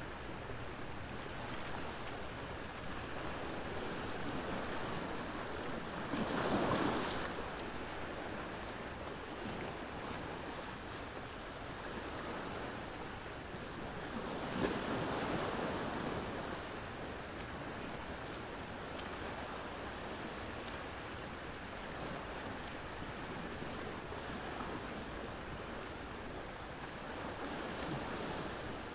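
Ocean waves washing onto the shore in a steady surf, with two larger waves swelling and breaking about a quarter of the way in and again around halfway.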